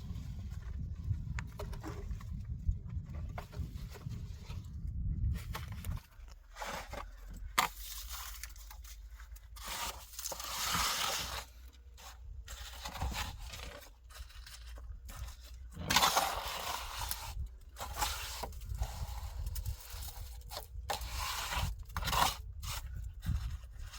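Intermittent scraping and rustling noises, in irregular bursts, over a low rumble that stops about six seconds in.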